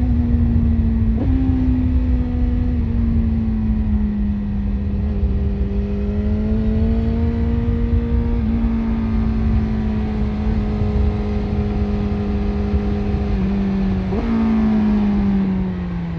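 BMW S1000RR inline-four with an Akrapovic exhaust running at a steady cruise, with a low rush of wind and road noise. Two quick blips of the engine on downshifts, one about a second in and one near the end; after the second the pitch falls as the bike slows.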